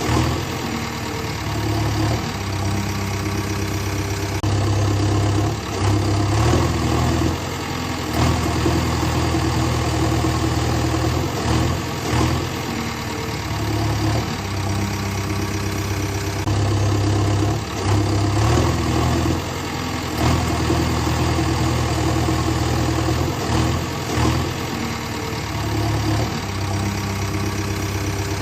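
Vehicle engine running near idle, its level swelling and dropping back every few seconds.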